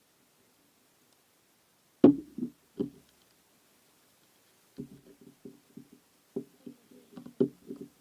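Objects being handled: a sharp knock about two seconds in, two softer knocks just after, then a run of small taps and clicks near the end.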